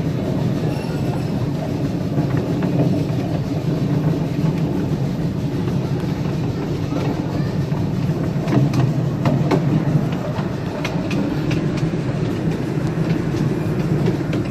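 Riding on a small-gauge railroad car drawn by a live steam locomotive: the wheels rumble steadily on the track, with sharp clicks as they pass over rail joints, most of them in the second half.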